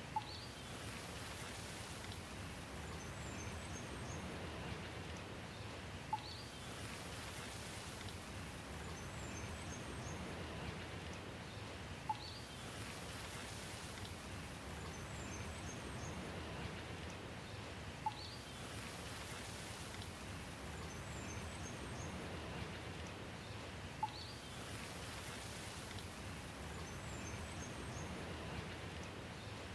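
Steady rain falling, with a sharp drip-like click and a few brief high chirps repeating about every six seconds, the pattern of a short recording played on a loop.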